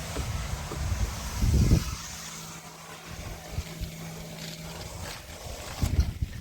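A motor running steadily with a low hum, with low rumbles swelling about a second and a half in and again near the end.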